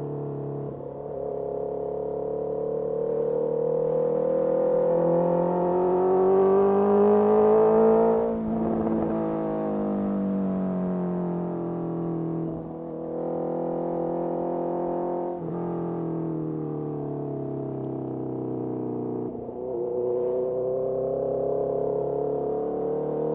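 Honda CBR650R inline-four engine through a Mivv MK3 carbon slip-on exhaust under way: the revs climb for about seven seconds, then the throttle shuts with a brief crackle and the revs fall away. Short dips at gear changes follow, and the revs rise again near the end.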